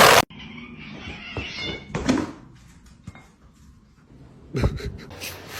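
A domestic cat meowing, with one short call about two seconds in.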